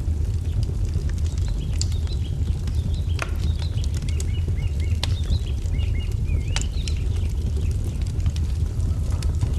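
Wood fire crackling with scattered sharp pops over a steady low rumble, while a small songbird chirps a quick series of short twittering notes through the middle.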